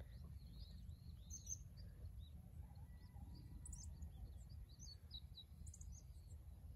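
Faint, scattered small-bird chirps, many short high notes here and there, over a low steady rumble.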